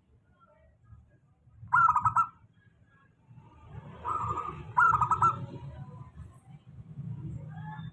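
Local zebra dove (perkutut) cooing: short bursts of rapid, stuttering coo notes, one about two seconds in and two more close together around four to five seconds in. A low rumble runs underneath.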